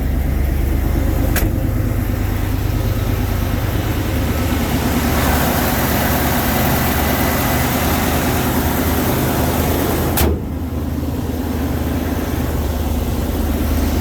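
Ford F-350's 5.8-litre 351 gas V8 running steadily just after a cold start, sounding pretty mean. A click comes about a second and a half in, and a sharp knock about ten seconds in.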